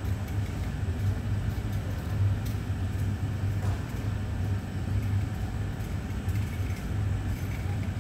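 Taiwan Railway EMU950 electric multiple unit pulling slowly into the station: a steady low rumble with a few faint clicks.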